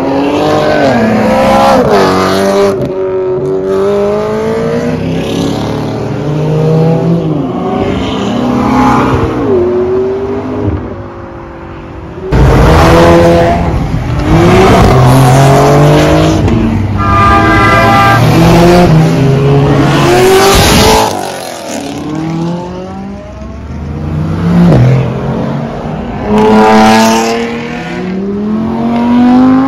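Sports and exotic cars accelerating hard away one after another, engines revving with the pitch climbing and dropping through gear changes. The loudest passes come about halfway through. Near the end a Lamborghini Huracán's V10 revs as it pulls away.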